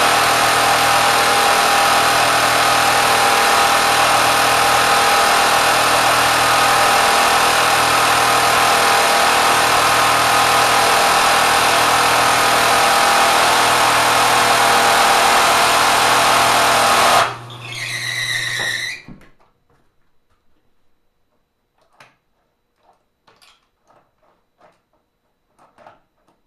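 Kenmore sewing machine driven hard by a 3/4 hp electric motor, running loud and steady at high speed. About three-quarters of the way through the sound drops suddenly and the whine winds down and stops. A few faint clicks follow. The machine's connecting rod has sheared off.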